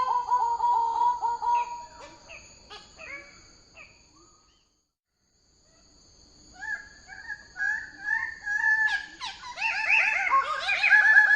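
Bird-of-paradise calling: series of loud, pulsing, nasal calls that fade to a brief silence about four seconds in, then resume and build to harsh, overlapping calls near the end.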